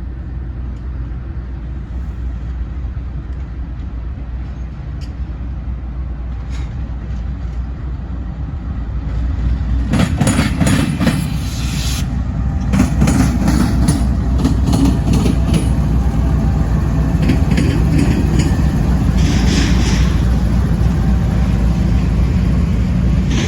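Norfolk Southern freight train going by: a steady low rumble that slowly builds, then from about ten seconds in a louder rolling clatter with rapid clanks and clicks of wheels and cars, from a train of auto racks and intermodal cars.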